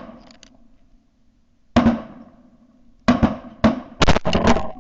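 Shotgun shots at ducks: one shot, then a quick volley of about five from several guns.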